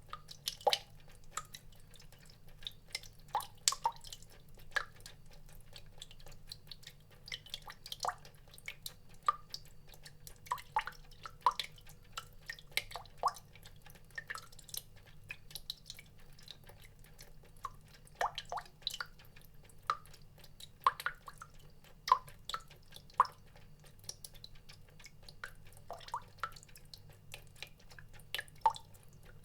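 Water drops dripping at an irregular pace, a few each second, each a short plink with its own pitch, over a faint low hum.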